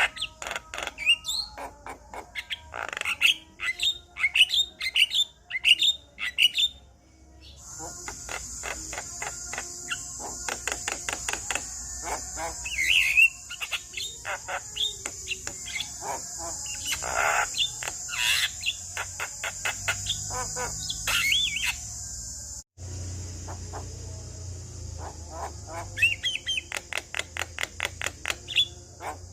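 Male Javan myna singing: fast runs of clicks and chatter mixed with sweeping whistled notes. A steady high hiss sits behind the song through its middle stretch, and the sound breaks off abruptly twice, once a quarter of the way in and once about three-quarters through.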